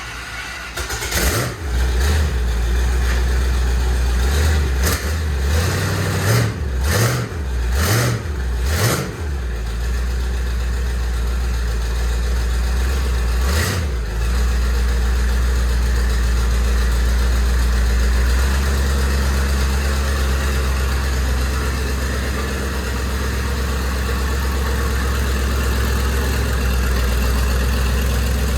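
Twin-turbocharged small-block Chevy 350 V8 running, with several quick throttle blips over the first ten seconds and another near 14 s, then settling into a steady idle.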